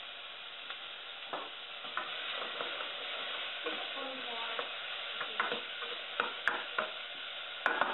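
Chicken, onions, garlic and celery frying in oil in a stainless steel pot with a steady sizzle, while a utensil stirs them, scraping and knocking against the pot. The knocks come more often in the second half, with a sharper clatter near the end.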